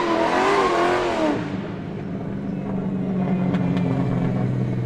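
Twin-turbo Audi R8's engine revving, its pitch rising and falling over a loud rush, then settling to a steady idle about a second and a half in.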